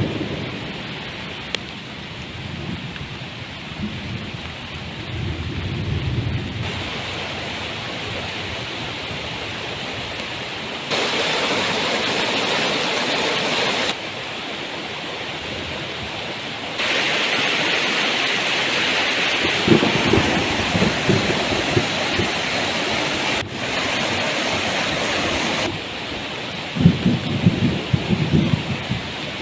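Heavy tropical rain falling steadily, with low rumbles of thunder rolling in several times; the rain's level jumps up and down abruptly at a few points.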